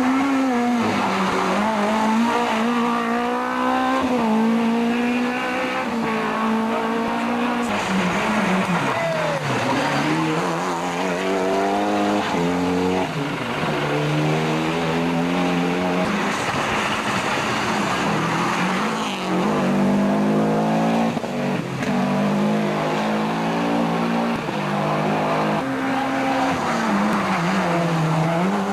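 Rally car engines driven hard on a special stage, revving up and dropping again and again through gear changes and braking.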